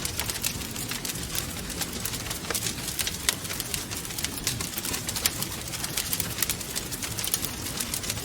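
Wood fire crackling, with many irregular sharp pops and snaps, over a steady low rush of wind.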